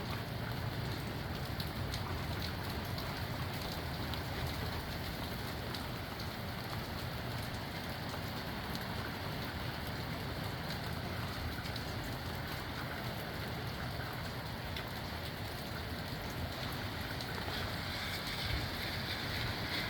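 Steady rain in strong gusty wind, with scattered drop ticks over a low wind rumble. It grows a little louder near the end.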